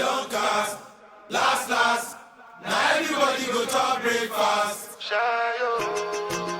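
Chanted vocals in several drawn-out phrases with short breaks between them, giving way about five seconds in to instrumental music with held notes.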